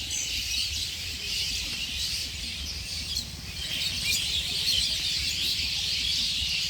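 A dense chorus of many small birds chirping and twittering at once, unbroken, with a low rumble beneath.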